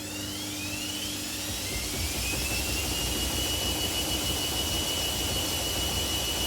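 Front-loading washing machine ramping up into a spin: the motor whine rises in pitch over the first three seconds, then holds steady at top speed. A low drum rumble grows underneath it.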